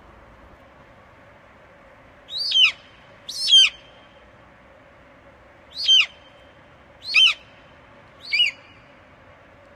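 An eagle calling five times in short, sharp, high cries, each sliding quickly down in pitch: two close together about two seconds in, then three more spaced about a second apart.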